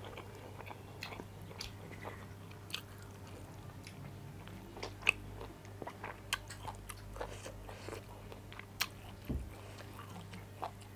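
Mouth-close eating sounds of a rice, dal and meat meal: chewing and biting with scattered small clicks and crunches, one sharper click about halfway through.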